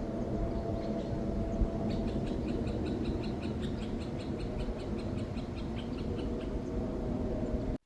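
Open-air ambience of low rumbling noise with a faint steady hum that fades away. About two seconds in, a small bird gives a rapid series of high chirps, about four or five a second, for some four seconds. The sound cuts off suddenly just before the end.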